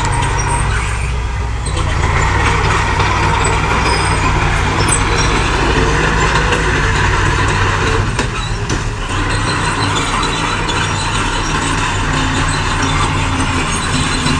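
Heavy diesel earthmoving machinery working: engines running steadily under load with a continuous mechanical clatter, easing briefly about two-thirds of the way through.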